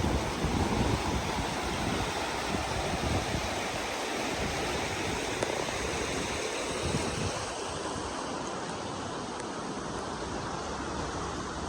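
Steady rush of flowing or falling water, with low wind buffeting on the microphone strongest in the first second.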